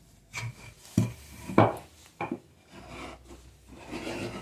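Wood knocking a few times as a board is handled on the bench, then the scratchy rub of a marking gauge scribing a thickness line along the board's edge.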